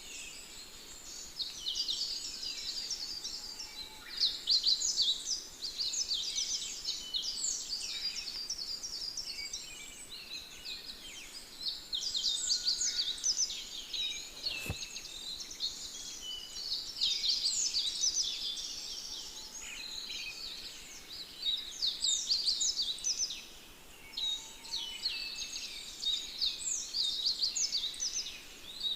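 Birds chirping and singing in a dense, continuous chorus of high, quick notes, with one faint click about halfway through.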